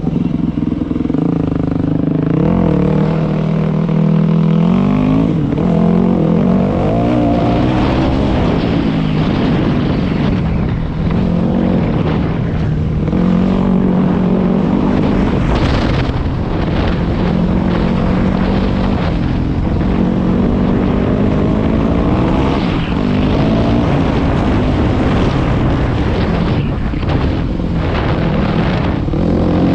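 Dirt bike engine running under load as the bike is ridden along a bush trail, its pitch climbing and dropping repeatedly as the throttle is opened and closed.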